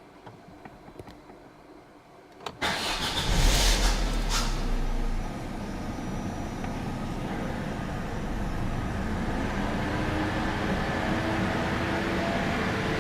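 Opel Astra H 1.6 Twinport four-cylinder petrol engine starting: a few faint clicks, then about two and a half seconds in it catches with a sharp onset and a loud flare for about two seconds before settling into a steady idle. This is the start-up noise the owner is showing as a suspected fault.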